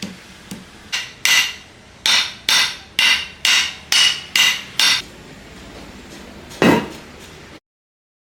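Hammer striking metal in a quick run of about nine blows, roughly two a second, each ringing briefly. One heavier blow follows near the end, then the sound cuts off suddenly.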